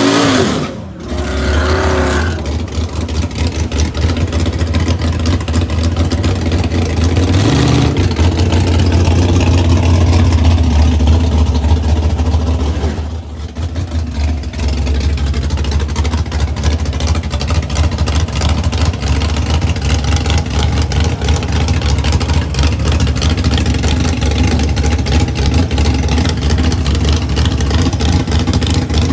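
Loud vehicle engine running close by, with a steady low rumble and some revving. It drops off briefly about a second in and again about halfway through.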